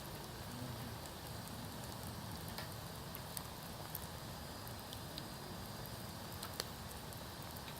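Wood campfire burning, with a steady low rustle and scattered sharp crackles and pops, the loudest about two-thirds of the way through.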